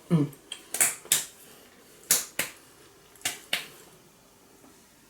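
Short, sharp clicks or taps: six of them in three pairs, the pairs about a second apart, after a brief voice sound at the start.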